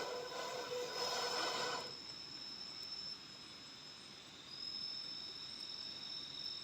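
Night insects in tropical forest trilling steadily at a high pitch. A louder pitched animal call with a hoarse edge sounds over them for the first two seconds.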